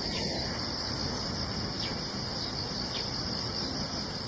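Insects singing in a steady, high-pitched chorus, with a few faint short chirps over it.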